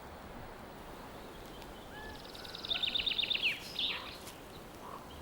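A songbird sings one short phrase about halfway through: a quick run of about eight repeated falling notes, ending in a brief flourish. Behind it is a steady, faint outdoor background hiss.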